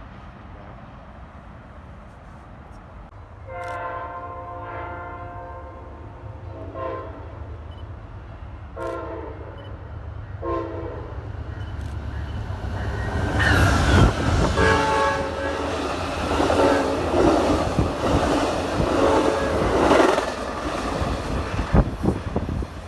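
Multi-chime locomotive horn sounding a long blast and then several short blasts as a train approaches. The train then passes close by, loud, with wheel and rail noise as the horn keeps sounding over it.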